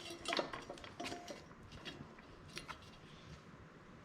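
A few light metal clicks and taps, one with a brief ring, as steel exhaust pipe pieces are handled and test-fitted.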